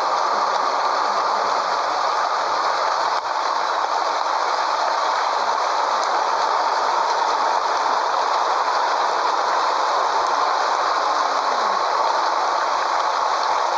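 Scania 113H truck on the move with a B-double trailer: steady, loud running noise of the engine and the rig. A faint falling tone comes in near the end.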